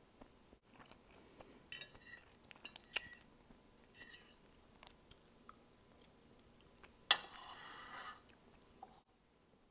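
Chewing of noodles, with a metal fork clinking and scraping on a plate. The loudest moment is a sharp clink about seven seconds in, followed by about a second of scraping.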